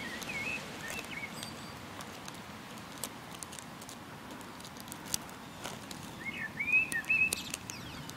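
A small bird chirping in short, quick gliding calls, a few just after the start and a louder run of them about six to seven seconds in, over a steady outdoor background with scattered faint clicks.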